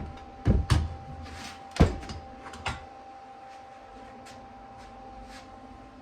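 A few sharp knocks and clunks of hard objects being handled, four of them in the first three seconds, over a steady background hum.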